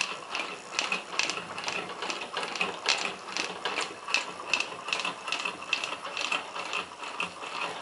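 Homemade model Stirling engine running on a spirit burner, its moving parts clicking in a steady rhythm, a few clicks a second.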